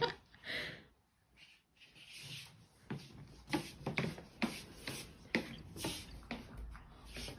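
A string of short, irregular scratching and rubbing sounds, coming thicker in the second half.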